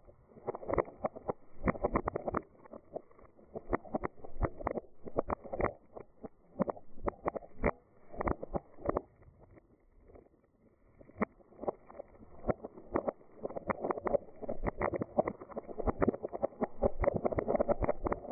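Dried beans rolling and rattling, a dense irregular patter of small clicks that swells and thins, sparsest about ten seconds in.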